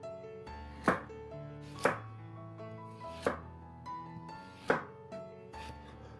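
Knife chopping on a cutting board: four separate strikes spaced about one to one and a half seconds apart, over soft background music.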